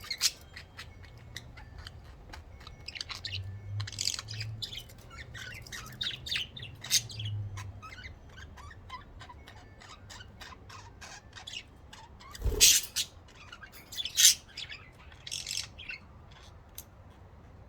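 Several pet budgerigars chirping in quick, irregular bursts, with one sharp knock about twelve seconds in.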